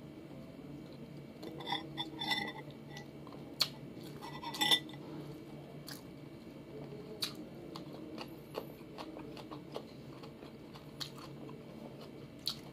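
Chewing and crunching of a mouthful of rice with fried dried salted fish and cucumber, eaten by hand. Scattered sharp clicks and a few short ringing clinks of dishes, the loudest about two and four and a half seconds in.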